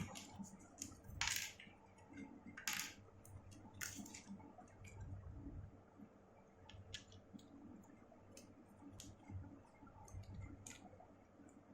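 Faint, scattered clicks and taps of small tools and phone parts being handled during an iPhone 6S Plus repair, with a few sharper clicks in the first four seconds.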